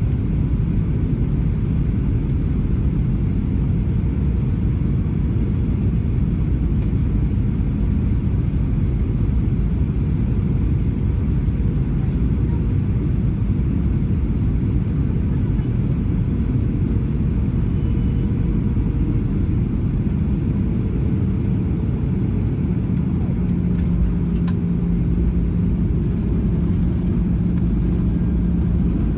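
Steady low rumble of a Boeing 737-900 jet airliner during a landing in a snowstorm, with a low steady hum joining near the end.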